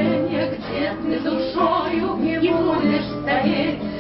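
A song performed live: a melody sung over steady sustained accompaniment chords.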